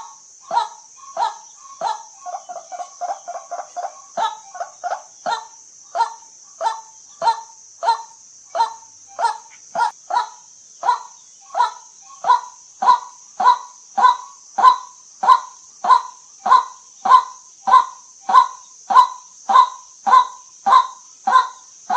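White-breasted waterhen calling its monotonous 'kuwak' note over and over, about one and a half calls a second. Around two seconds in it breaks into a quicker run of softer, lower notes before going back to the steady calling. A steady high hiss runs underneath.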